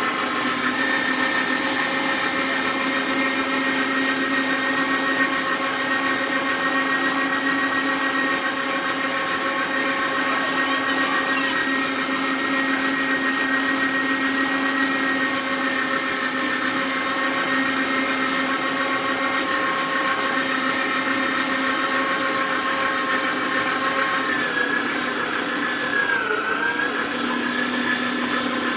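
Kenwood electric meat grinder running steadily as it grinds meat, a continuous motor hum with a few held tones. Near the end its pitch sags briefly and then recovers.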